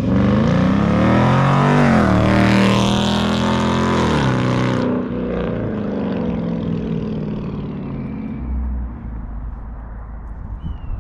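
Dodge Charger HEMI V8 with a mid-muffler delete, revved hard: the exhaust note climbs and falls in pitch for about five seconds, then drops to a lower, steadier sound.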